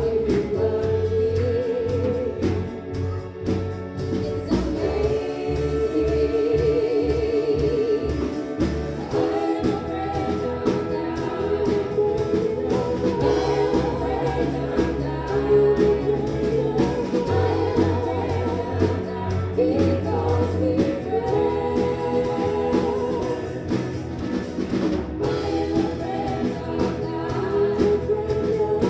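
Gospel worship music: singing with other voices over a held bass line and a beat.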